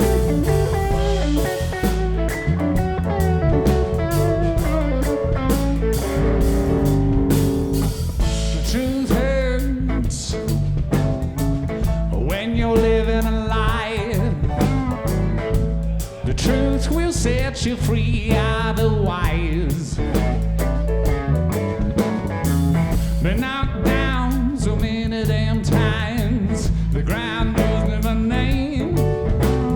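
A band playing a blues-rock song, led by guitar over a steady low bass line, with wavering, bending high notes from about nine seconds in.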